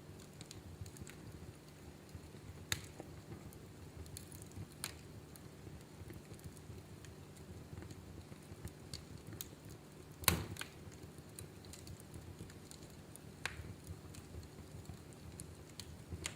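Wood fire in a fireplace crackling: scattered sharp pops and snaps over a low steady background, with one louder pop about ten seconds in.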